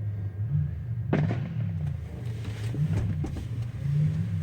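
Aerial fireworks going off: a sharp bang about a second in, followed by a run of crackling pops, over a steady low hum.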